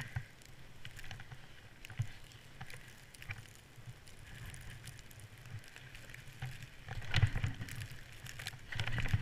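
A 1998 Yamaha SRX 700 snowmobile's two-stroke triple being restarted after it was choked to kill it. There is wind and scattered knocks, a louder start attempt about seven seconds in, and near the end the engine catches and keeps running.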